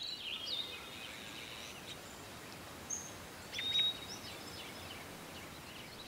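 Songbirds calling over a steady outdoor hiss: a few short chirps and whistles in the first second, then a louder chirping call ending in a held whistle about three and a half seconds in.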